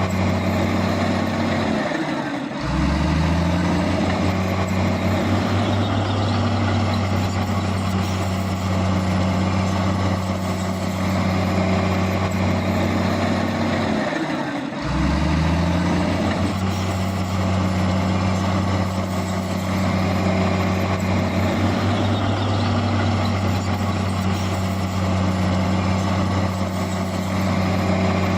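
Heavy diesel engine of earthmoving machinery running steadily and loud under load. Twice its note briefly dips and then climbs back up as the engine revs again.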